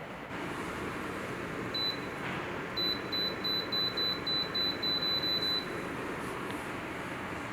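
Digital space heater's control panel beeping: one short high beep, then a quick run of about ten identical beeps, about three a second, as its settings are stepped through. A steady fan-like noise runs underneath.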